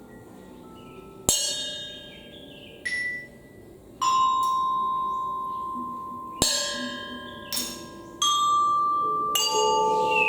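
Ringing metal percussion struck one note at a time, about seven strikes at uneven intervals, each left to ring out. Near the end a wavering, sliding whistle-like tone comes in.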